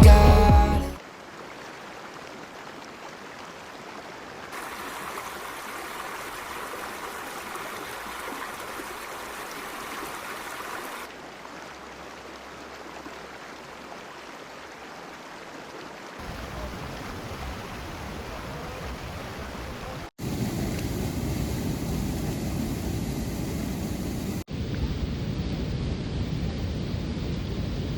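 Steady outdoor ambient noise, an even rushing like flowing water, that changes character abruptly several times at hard edits. The later stretches carry more low rumble.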